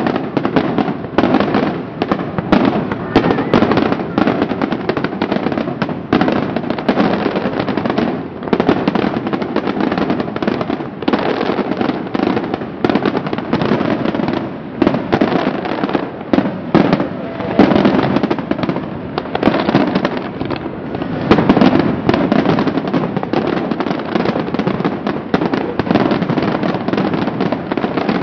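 Fireworks display: a dense, continuous barrage of aerial shell bursts and crackling firecrackers, the bangs overlapping without a break.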